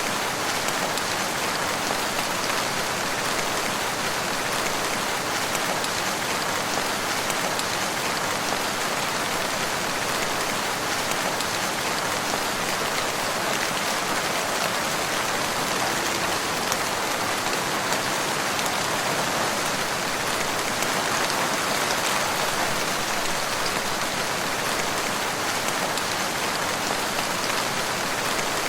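Steady rainfall, an even hiss of drops falling on leaves and ground that stays at one level throughout.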